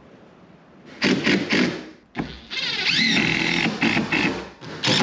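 Power tool working on wood, running in three short stretches with brief pauses between them.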